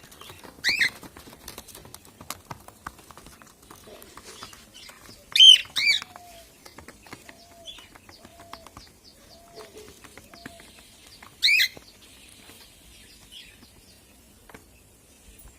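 Pet birds calling: four short, shrill squawks, one about a second in, two close together a few seconds later and one more near eleven seconds. A faint run of soft repeated low notes comes between them, over light scratching and clicking.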